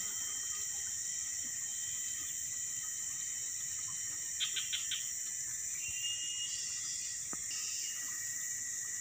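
Steady, high-pitched drone of a forest insect chorus. A few quick bird chirps come about halfway through, followed by a short whistled bird note.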